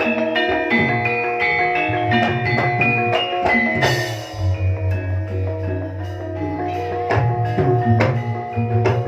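Live Javanese gamelan music accompanying a jaranan horse dance: struck metal keyed instruments playing a stepped melody over percussion, with a low note holding for about three seconds around the middle.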